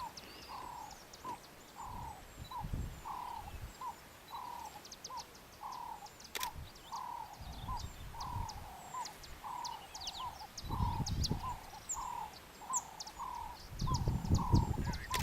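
A bird or frog calling, one short note repeated about twice a second without a break, over scattered high chirps and ticks. A few brief low rumbles come and go.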